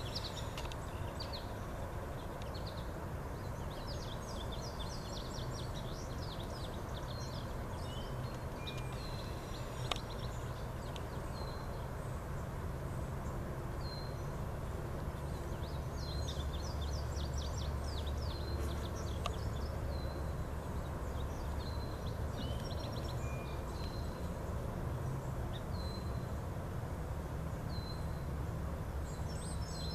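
Outdoor ambience of small birds chirping and calling in short, repeated notes over a steady low rumble of background noise.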